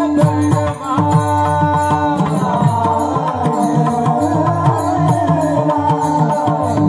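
Marathi kirtan music: devotional singing over steady held instrumental tones and busy hand drumming, the low drum strokes sliding in pitch.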